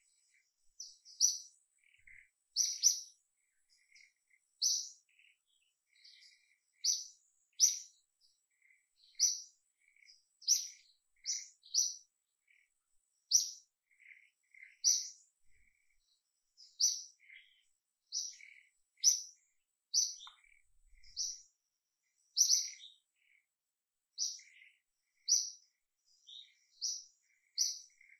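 Birds chirping: short high chirps repeated about once every second or so, with fainter, lower chirps in between.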